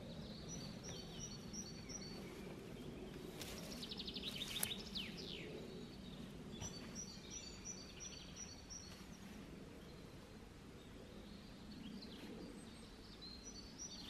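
Quiet forest ambience with a low steady background noise. A small songbird sings runs of short, high repeated notes, about 1 s and 7 s in and again near the end, with a brief burst of chirps and quick falling notes about four seconds in.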